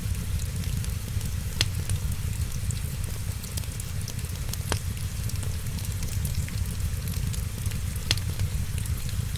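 Wood fire crackling: a dense run of small ticks with three louder sharp pops spread through, over a steady low rumble.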